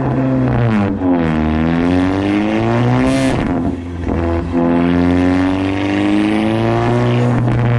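Turbocharged VW mk7 GTI four-cylinder engine making full-power pulls on a chassis dyno. The pitch climbs for a couple of seconds, drops with a short hiss about three seconds in, climbs again for several seconds, and falls off near the end.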